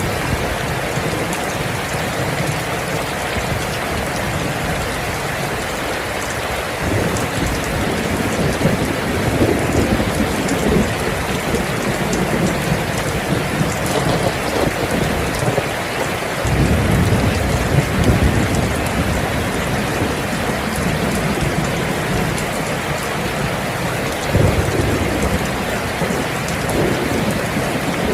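Steady rain falling, with low rumbles of thunder rolling in several times; the strongest rumble comes a little past the middle.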